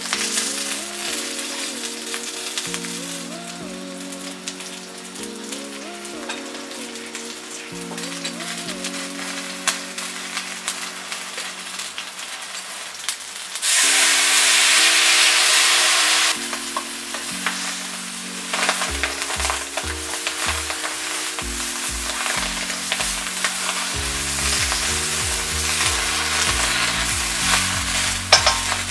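Chicken pieces frying in a wok, sizzling steadily while a metal spatula stirs and scrapes them, with scattered clicks of the spatula against the pan. About halfway through, the sizzle surges much louder for two or three seconds, then settles back.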